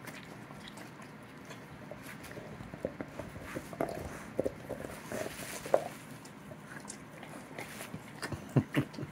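Small irregular noises from a Labrador retriever close by: scattered soft clicks and knocks, busiest near the end.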